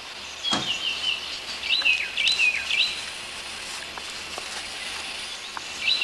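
Birds chirping: quick runs of short, hooked chirps come in clusters, about a second in and again past the middle, over a steady background hiss.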